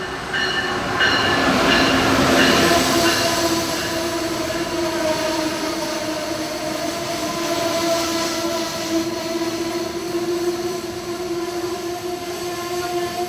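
Amtrak Northeast Regional electric passenger train rolling into a station and slowing for its stop, its brakes squealing. The squeal is a steady tone that grows clearer as the train slows.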